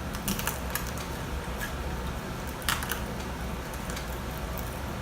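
Scattered small clicks and smacks of people eating, chewing and handling food and cutlery, over a steady low hum. The sharpest click comes a little past halfway.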